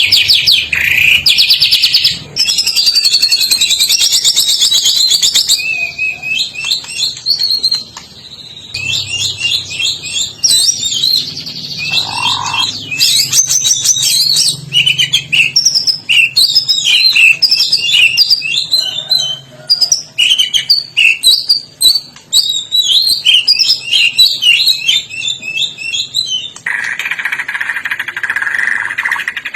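White-rumped shama (Medan murai batu) singing in full voice: a fast, unbroken run of varied whistles, trills and chattering notes, with a brief pause about eight seconds in. Near the end a steadier, lower hiss comes in under the song.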